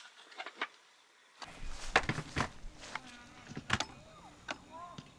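Scattered small clicks and knocks, over a low steady rumble that sets in about a second and a half in.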